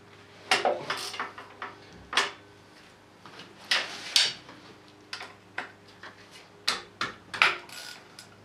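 Metal hand tools clinking and knocking: a wrench being picked up and fitted to bolts, about a dozen sharp clinks at irregular intervals, over a faint steady hum.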